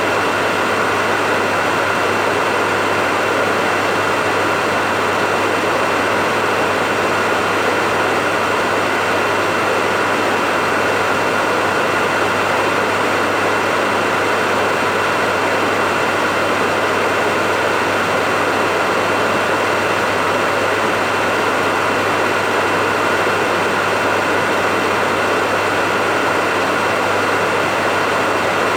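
Hair dryer running steadily at one setting: a constant rush of blown air with a steady motor whine that does not change.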